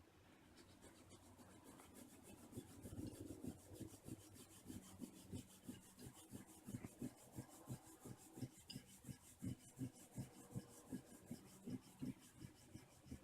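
Colouring strokes on paper, rubbed quickly back and forth at about three strokes a second as the brown trunk of a drawn tree is filled in. Faint and scratchy.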